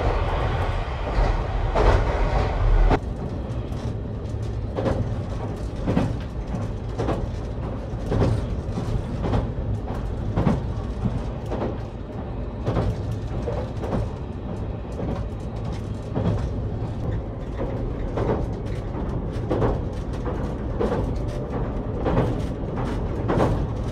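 Running noise of the JR Kyushu Nichirin limited express heard from inside the car while it travels at speed: a steady low rumble with short knocks about once a second. The rumble is heavy at first and drops sharply about three seconds in.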